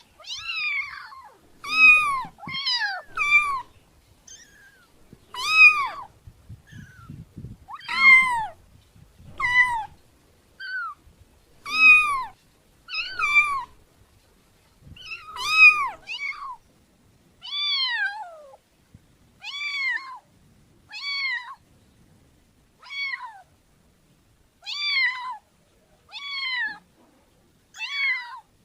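Domestic cat meowing over and over: about twenty short meows, each falling in pitch, one every second or two with brief pauses between.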